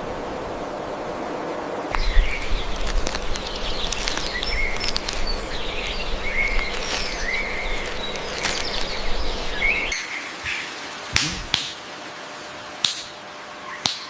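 Birds chirping, with many short whistled calls overlapping. About ten seconds in the background drops away and a few sharp clicks ring out.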